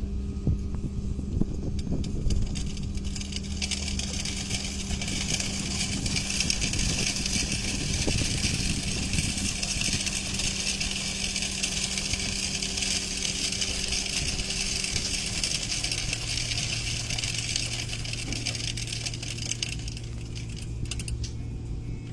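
Heavy machinery running: a steady motor hum with a hiss that builds a few seconds in and fades near the end. The hum drops to a lower pitch about two-thirds of the way through.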